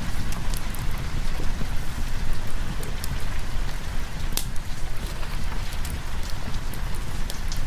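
Steady heavy rain over a continuous low rumble, with scattered sharp ticks of drops or crackles.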